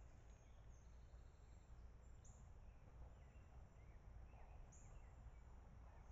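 Near silence: faint high bird chirps, three times about two and a half seconds apart, with a few softer calls between, over a steady low rumble.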